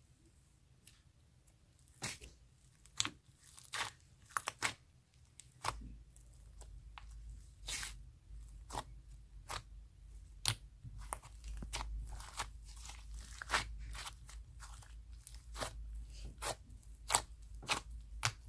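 Butter glitter slime being squished and poked by hand: irregular sharp clicks and crackly pops, few at first and coming thicker after about six seconds.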